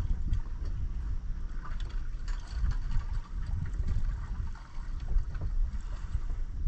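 Wind buffeting the microphone in uneven gusts, with water lapping and splashing against the hull of a drifting fishing boat.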